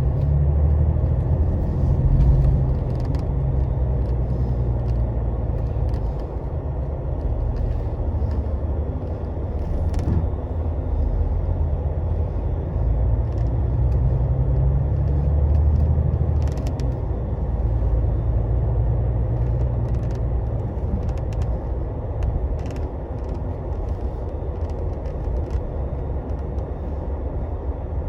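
Cabin sound of a Scania Astromega double-decker coach on the move: a low diesel engine drone and road rumble, the engine note swelling and easing a couple of times, with a few faint scattered clicks and rattles.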